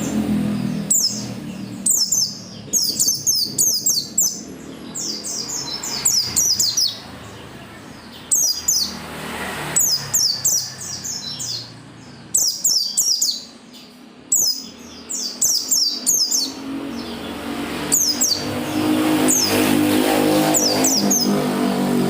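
White-eye (pleci) singing energetically, with bursts of rapid, high, descending twitters every second or two. A low rumble runs underneath, strongest at the start and again near the end.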